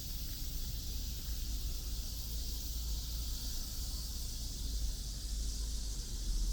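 Outdoor city-park ambience: a steady high hiss over a low rumble, with no distinct events.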